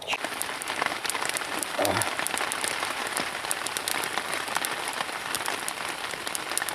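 Rain pattering steadily as a dense mass of small drop impacts.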